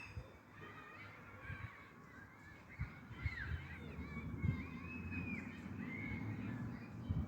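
Birds calling outdoors, with short chirps that glide up and down in pitch, clustered in the middle of the stretch. Under them are scattered low thumps and a low rumble that grows louder near the end.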